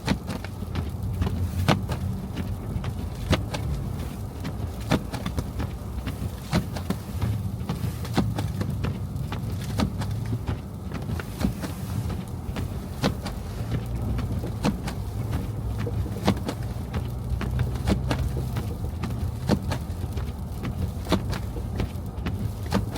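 A car driving on snowy city streets: a steady low rumble of engine and tyres, with a sharp click about every second and a half.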